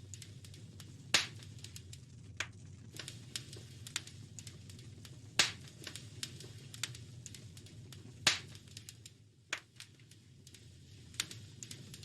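Wood fire crackling in a fireplace: scattered sharp pops and snaps over a soft low rumble of the flames, with three loud pops about one, five and a half and eight seconds in.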